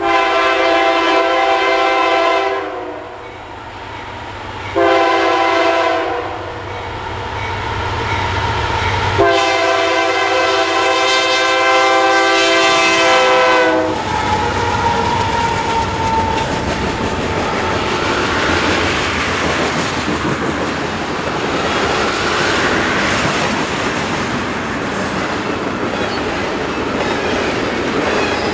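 Horn of a Union Pacific diesel freight locomotive sounding three blasts: a long one, a short one, then the longest. About halfway through the locomotives pass with a deep engine rumble, and a long train of tank cars follows, rolling steadily over the rails.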